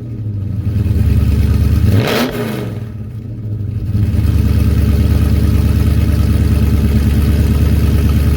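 2019 Dodge Charger Scat Pack's 392 HEMI V8 running at idle with a low rumble. It is blipped once in a quick rev about two seconds in, then settles into a louder steady low drone from about four seconds on.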